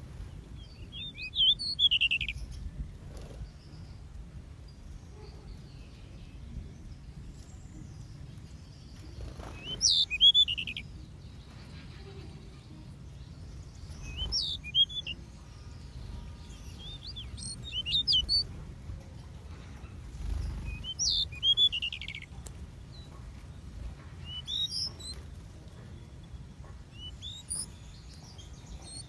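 Small aviary songbirds chirping in short bursts of quick, high chirps every few seconds, over a low steady background rumble.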